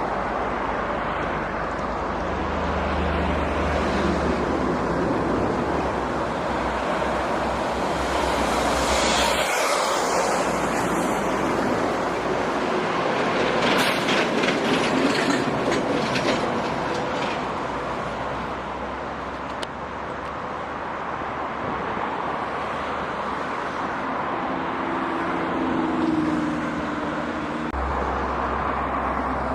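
Heavy diesel trucks driving past, with a low engine hum and tyre and road noise. A burst of rattling and clattering comes about halfway through.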